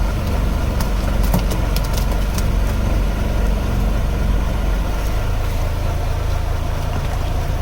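Fishing boat's engine idling steadily, with a few sharp clicks in the first couple of seconds.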